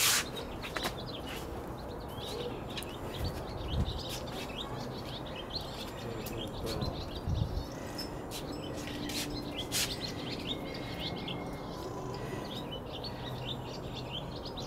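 Small birds chirping in quick, repeated short notes over a steady outdoor hiss, with a few sharp clicks and a couple of brief low thumps.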